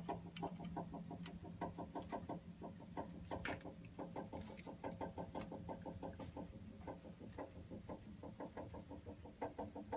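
Water heater making a rapid run of short, pitched chirping pulses, about six a second, over a steady low hum. It is an unexplained noise whose source the owner is trying to trace on the unit.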